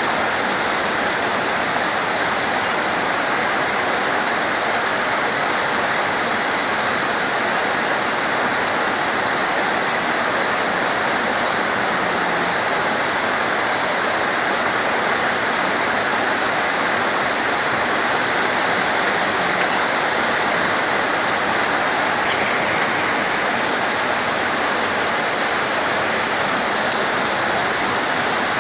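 Heavy torrential rain falling as a steady, dense hiss, with a faint tick about nine seconds in.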